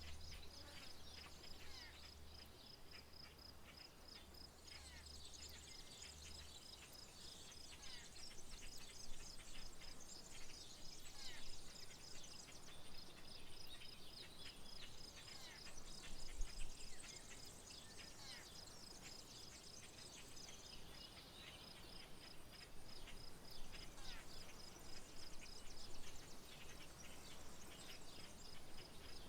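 Countryside wildlife chorus: an insect keeps up a steady, evenly pulsing high trill while many birds chirp and call over it, their chatter thickest in the middle. A low hum underneath dies away about six seconds in.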